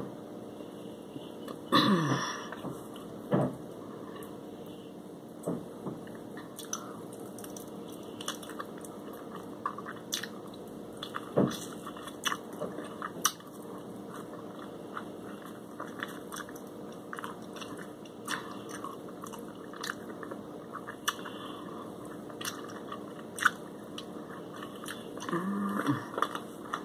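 A person chewing and biting fried shrimp and fries close to the microphone: scattered crisp crunches and wet mouth clicks over a faint steady hum, with a louder mouth sound about two seconds in.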